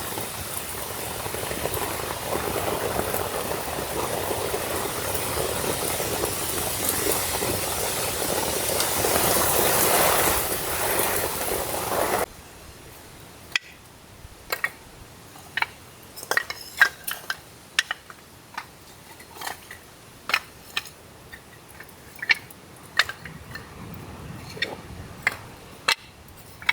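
Steady rushing of a forest stream that cuts off abruptly about twelve seconds in. A quiet stretch follows with scattered, irregular sharp ticks and taps.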